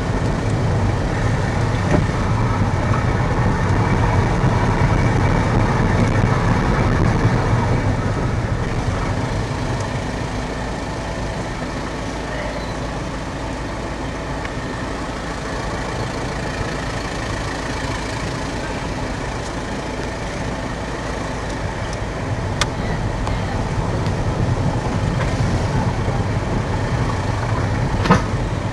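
A car being driven, heard from inside the cabin: steady engine and road rumble that eases off in the middle and swells again, with a couple of sharp clicks near the end.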